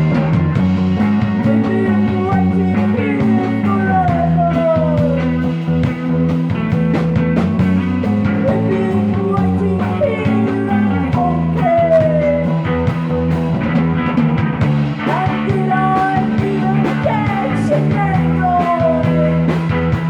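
Live psychedelic rock band playing an instrumental passage, with sustained low notes, bending, gliding lead lines above them and steady drums.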